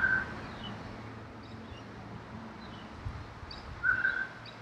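Birds calling outdoors: a short, steady whistled note at the start and again about four seconds in, with faint higher chirps in between. There is a brief low rumble around three seconds in.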